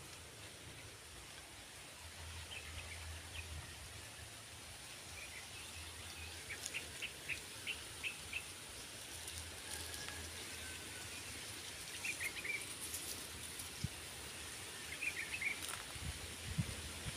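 Small birds chirping: quick runs of short high chirps, a handful at a time, coming several times over a faint steady high hiss. A few soft knocks near the end.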